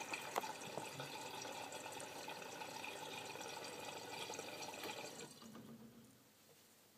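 Miele W562 washing machine taking in water at the start of the main wash: a steady hiss of running water with a light click near the start, which dies away about five seconds in.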